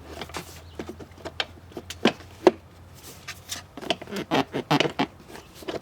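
Irregular clicks and knocks of a motorcycle's rear bodywork piece being pushed and jiggled against its latch while it is fitted, the piece not yet catching.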